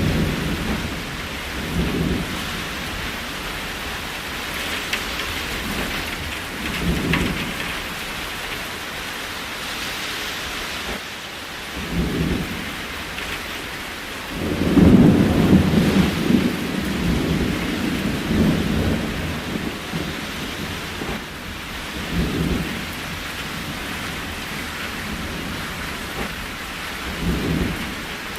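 Steady rain with short low rumbles of thunder every few seconds. A longer, louder rumble comes about halfway through and lasts several seconds.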